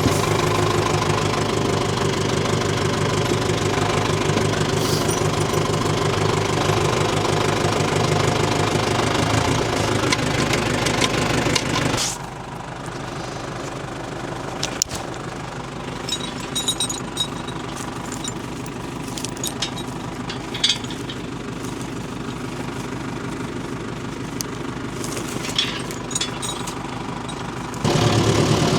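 Tractor engine running steadily. About twelve seconds in it drops suddenly to a much quieter level, with scattered clicks and knocks, and near the end it comes back loud.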